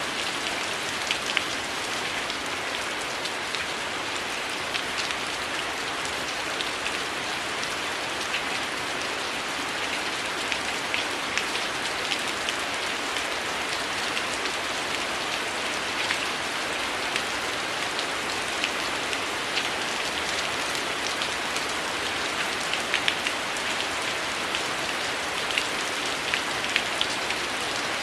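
Heavy rain falling steadily, a constant hiss with scattered sharp ticks and pops running irregularly through it.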